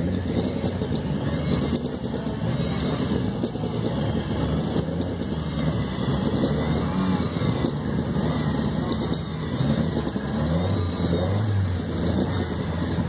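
Rally car engines running at low speed as the cars roll slowly across grass, a steady deep rumble.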